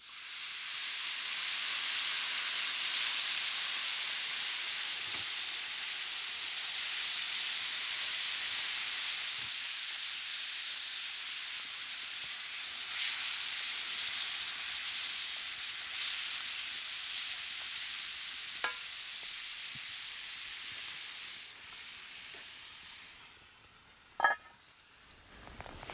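Toasted risotto rice in a hot pan sizzling hard as white wine is poured in to deglaze it. The hissing starts suddenly and slowly dies away over about twenty seconds, with a short sharp knock near the end.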